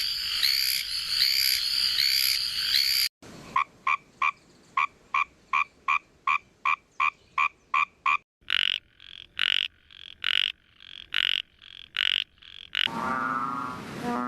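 Calls of four Chinese frog species in turn. First a dense, high-pitched chorus of Hyla immaculata tree frogs, calling in quick repeated notes. Then Fejervarya multistriata paddy frogs giving short notes about three a second, followed by Microhyla fissipes narrow-mouthed frogs giving louder buzzy rasps about two a second, and near the end a deep, drawn-out lowing call from a banded bullfrog, Kaloula pulchra.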